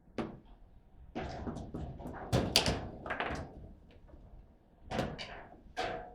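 Table football play: the ball is struck by the rod-mounted players and knocks against the table walls, with rods banging. The knocks come in an irregular flurry, busiest and loudest in the first half, then two single hits near the end.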